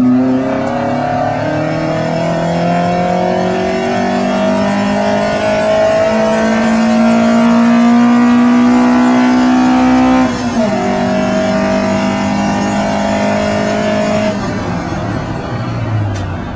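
Alfa Romeo Spider's twin-cam four-cylinder racing engine, heard from inside the cockpit under hard acceleration: its note climbs slowly through a long pull, drops with an upshift about ten seconds in, pulls again, then falls away near the end as the throttle is lifted.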